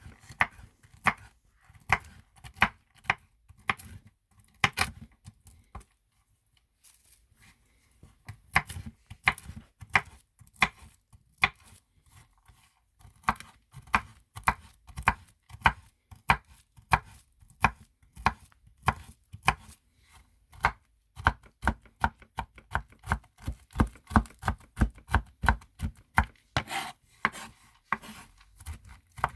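Knife chopping on a cutting board in a long series of sharp strokes, about one or two a second at first, then quicker, about three a second, after a short pause about six seconds in.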